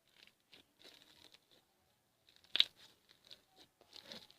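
Slime being swirled by hand, giving faint sticky crackles and small clicks, with one sharper click about two and a half seconds in.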